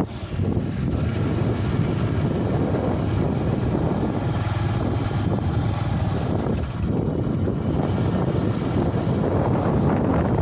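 Steady low rumble of a vehicle in motion, with wind on the microphone.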